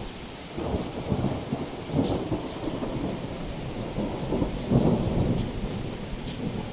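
Thunder rumbling in rolling waves over steady heavy rain, swelling several times and loudest about five seconds in.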